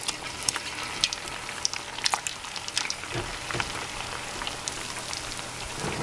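Tofu cubes, just added, frying in hot oil in a pan: a steady sizzle dotted with sharp crackles and pops.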